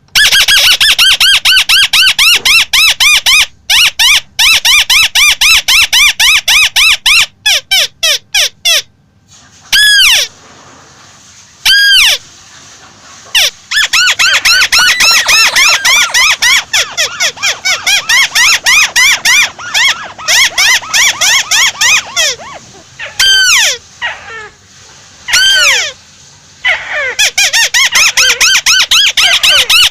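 A tikusan (crake) calling loudly: fast runs of repeated up-and-down notes, broken by a few short pauses.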